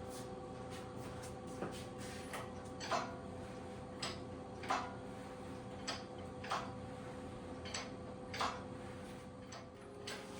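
Hydraulic engine hoist (cherry picker) being pumped: paired short clicks and creaks from the pump handle strokes, about every second and a half, over a steady faint hum.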